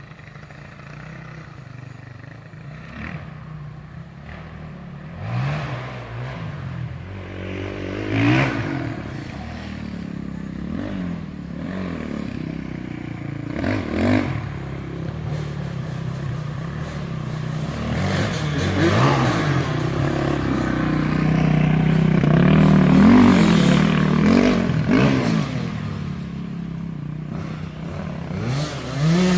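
Dirt bike engine revving up and easing off again and again as it rides around a dirt track, growing louder as it comes closer and loudest about three quarters of the way through.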